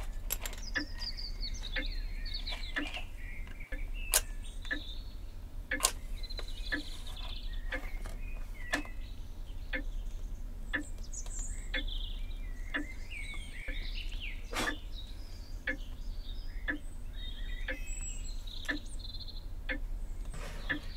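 Small birds chirping and twittering, over light ticks that repeat roughly once or twice a second and a low steady hum.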